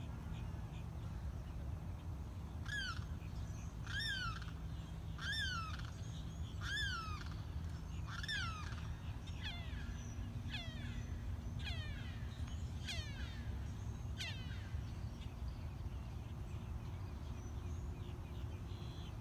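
An animal, most likely a bird, calls over and over: about ten loud calls a little over a second apart, the last few sliding down in pitch, then it stops a few seconds before the end. A steady low hum runs underneath.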